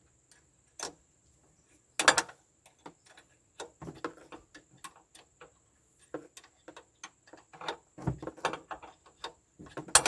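Irregular small metallic clicks and clinks of a spanner being worked on a bolt in a cramped space, with a louder clatter about two seconds in and another near the end.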